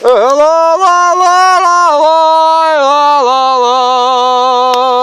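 A person singing loudly close up on a wordless held vowel. It is a few long notes that step down in pitch, with a slight waver.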